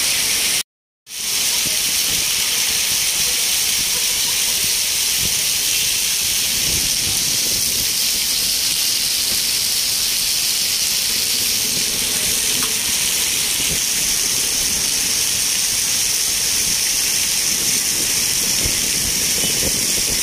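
Heavy rain pouring down on a wet street and parked vehicles: a loud, steady hiss of downpour. It drops out to silence for about half a second, just under a second in.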